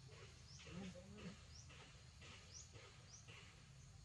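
Near silence: quiet outdoor ambience with a bird's faint, short high chirp repeated several times.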